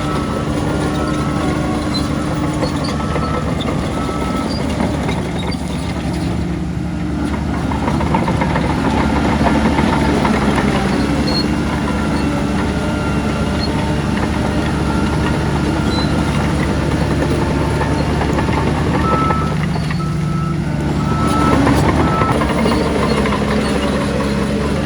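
Heavy diesel earthmoving machinery running steadily under load, with a reversing alarm beeping in short evenly spaced beeps in the first few seconds and again about twenty seconds in.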